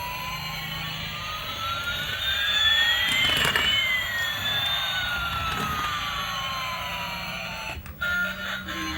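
Jet-plane sound effect: a steady hiss with one whine rising in pitch while another falls, the two crossing about midway, swelling loudest around the crossing and cutting off abruptly near the end.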